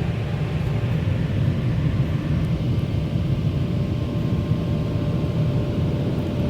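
Automatic car wash dryer blowers running steadily, a loud rush of air heard from inside the car's cabin as it blows water off the windshield, with a faint steady hum underneath.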